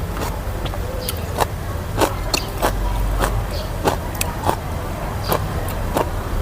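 Close-up crunching and chewing of som phak, fermented pickled vegetables: short crisp crunches at about two to three a second, over a steady low rumble.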